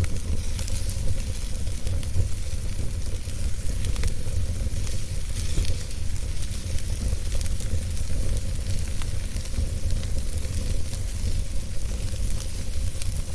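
Wood burning in a fireplace: a steady hiss and low rumble from the fire with many small, irregular crackles and pops.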